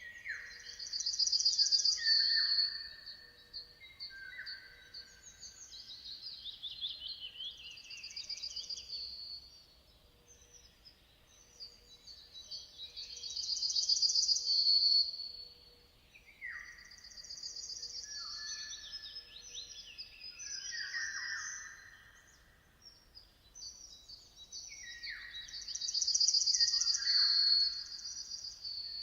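Songbirds singing: high, rapid trilled phrases that come back about every twelve seconds, mixed with lower notes that fall in pitch, and quieter song between the phrases.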